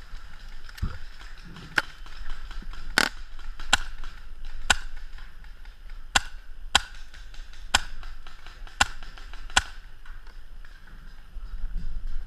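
Paintball marker shots: about nine sharp single pops, fired at uneven intervals over roughly eight seconds and then stopping.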